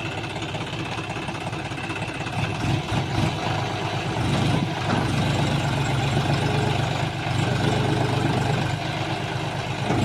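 Tractor diesel engine running, getting louder about four seconds in and then holding a steady, heavier note.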